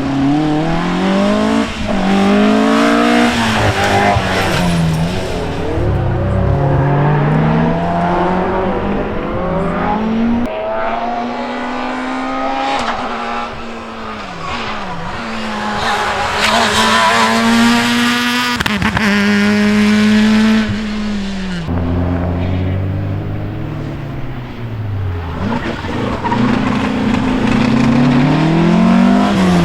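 Rally car engines revving hard and dropping in pitch again and again through gear changes and lifts as the cars drive the stage, with several rises and falls and a longer high held note about two-thirds of the way through.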